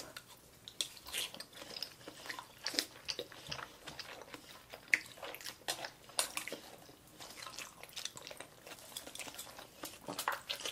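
Close-miked chewing and mouth sounds of children eating salmon sashimi and sushi: a run of irregular soft clicks and smacks.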